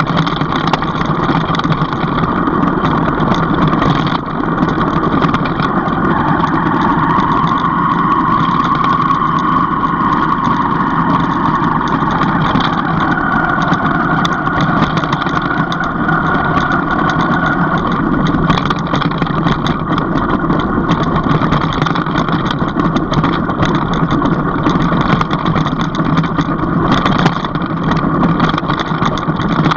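A vehicle's engine running steadily while driving, with a slight drift in pitch between about 7 and 13 seconds in.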